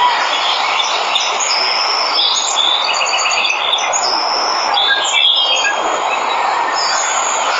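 Steady rush of a waterfall with many birds chirping and trilling over it, busiest through the middle seconds.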